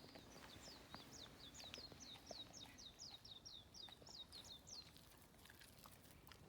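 A bird calling: a fast, faint series of short notes, each falling in pitch, about four a second, lasting about four and a half seconds.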